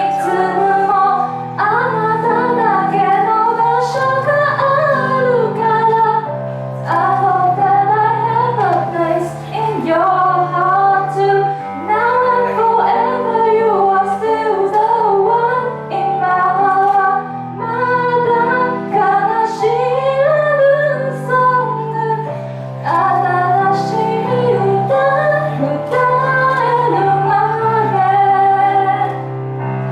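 A woman singing a slow, melodic song in long phrases over an instrumental backing of sustained chords.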